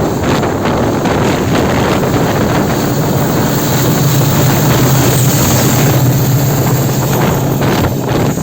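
Train running at speed, heard as loud rushing wind on the microphone over a rumble of wheels. A steady low hum joins about three and a half seconds in and fades near the end.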